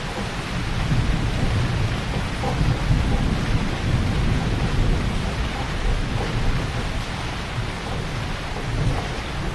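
Heavy rain falling steadily. A low rumble of thunder swells about a second in and fades away after several seconds.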